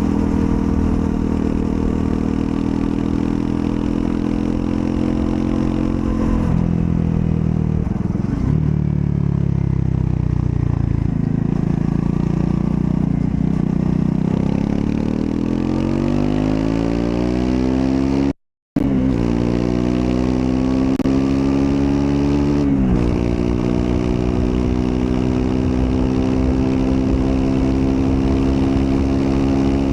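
Triumph Scrambler 400 X's 398 cc single-cylinder engine on the move. It runs steadily, slows with falling engine speed, then pulls up through the revs for several seconds. After that it settles into steady cruising after a quick drop in pitch at a gear change, easing off at the very end. The sound cuts out completely for a fraction of a second about two-thirds of the way through.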